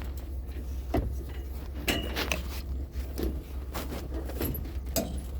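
Scattered knocks, clunks and light rattles of things being handled and moved, over a steady low rumble.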